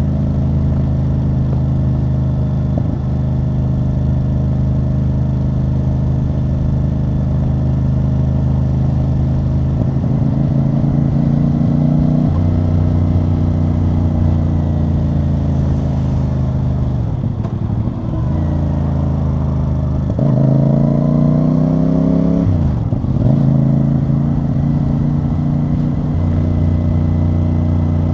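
CFMoto CL-C 450 parallel-twin engine and exhaust running under way, heard from the rider's seat. The note holds steady, then drops twice past the middle as the throttle closes, with the revs climbing again in between and after.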